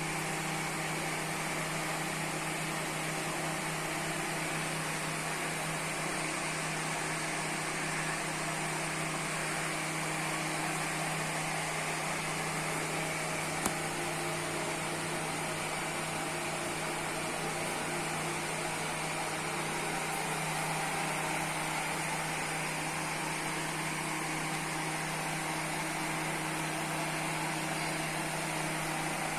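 Exhaust fan running steadily, a constant hum over a whooshing rush of air. There is a single brief click about halfway through.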